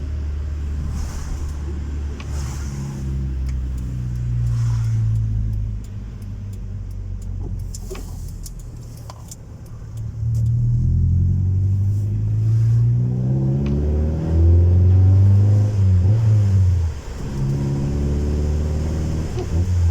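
Honda Civic 1.4i S engine through a custom-made exhaust, accelerating: quieter and fairly steady at first, then from about halfway it gets louder, with the pitch climbing several times and dropping back before climbing again.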